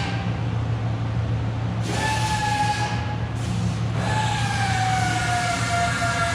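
Steady low machine hum with a whining tone on top that slowly falls in pitch, cuts out about a third of the way in and comes back a second later.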